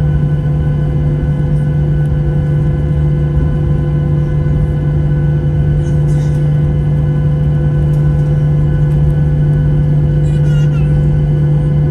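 Steady drone inside the cabin of a Boeing 737-800 in flight: engine and airflow noise with a low hum and several steady tones held at a constant level.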